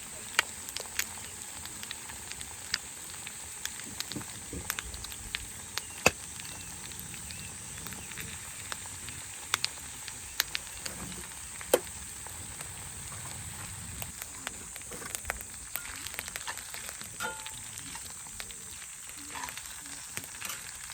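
Campfire burning with a steady hiss and irregular sharp pops and crackles.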